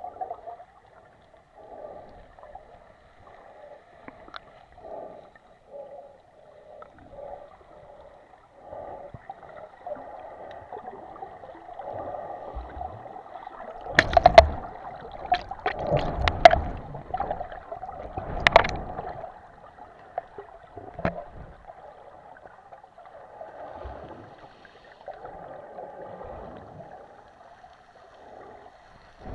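Mediterranean sea water washing and gurgling at the shore in uneven swells. A few loud, sharp knocks and splashes come in a cluster around the middle.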